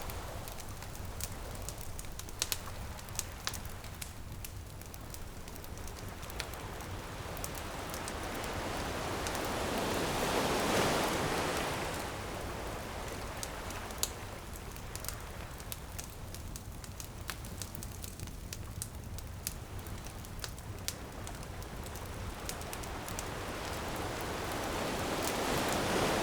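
Bonfire crackling with many small sharp pops, over ocean waves washing in; a wave swells and breaks about ten seconds in and another near the end.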